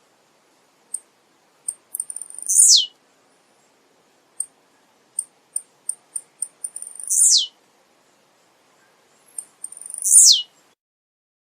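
Male blue-black grassquit (tiziu) singing: three short, high buzzy phrases, each sweeping down in pitch, about every three to five seconds, with thin high ticks between them.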